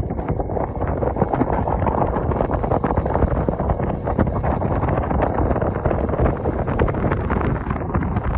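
Wind buffeting the microphone: a steady, loud, gusty rumble.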